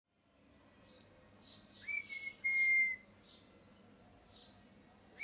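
Pet ringneck parrot giving soft chirps, then, about two seconds in, a loud whistle that swoops up and holds one steady note for about a second, breaking once.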